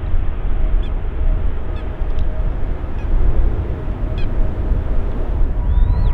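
Jet airliner engine noise: a loud, deep rumble with a faint steady whine, and a few short bird chirps above it.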